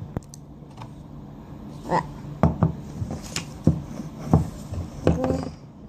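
Handling of plastic toy ponies: a scatter of short taps and clicks, about ten of them, irregularly spaced.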